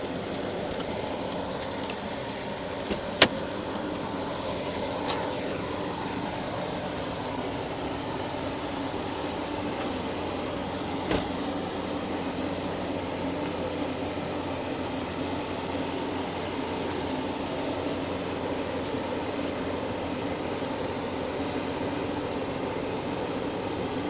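Steady machinery hum from parked railway camp cars, with a sharp click about three seconds in and a couple of fainter ticks later.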